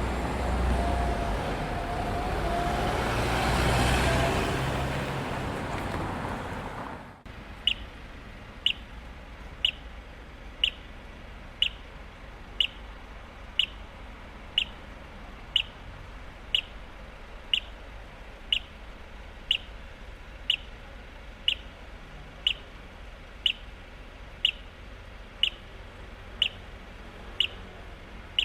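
City street traffic, a vehicle passing close and fading, then an abrupt change to a quieter street where a pedestrian crossing signal chirps evenly about once a second over faint traffic.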